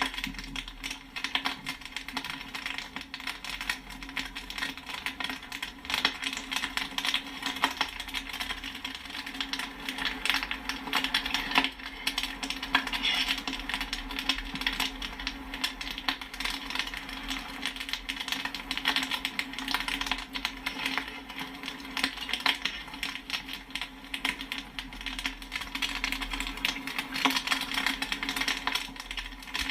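Popcorn kernels popping in quick, irregular succession, a dense patter of sharp pops and pings, over a steady low hum.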